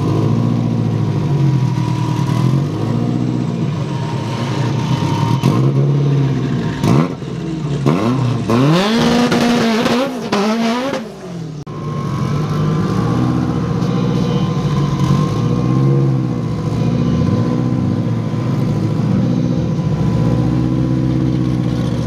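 Race car engines at a drag strip being revved in repeated blips. About eight seconds in, a surge of rising revs sweeps up, as from a car launching hard, then the engine note drops away. Near the end, revving blips resume.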